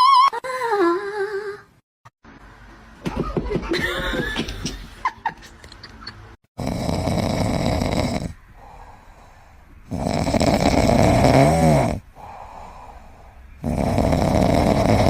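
Loud snoring in a slow rhythm, a long rasping in-breath about every three and a half seconds with quieter out-breaths between. A brief high, wavering call comes first.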